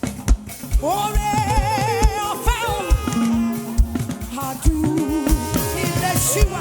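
Live worship band music with a steady low drum and bass beat, and a voice singing long wavering notes over it.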